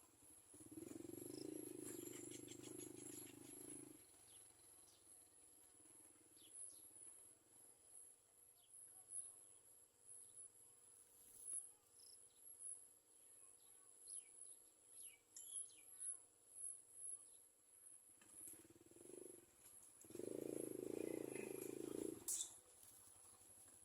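Faint outdoor ambience with a steady high insect drone. A few faint short chirps come and go, and a low rumble rises near the start and again near the end.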